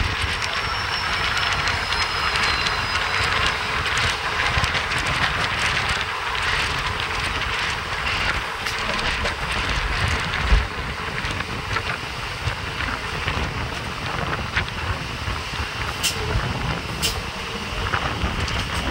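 MEMU electric train running along the line, heard from on board: a steady rumble and rattle of wheels on track, with one low thump about ten seconds in.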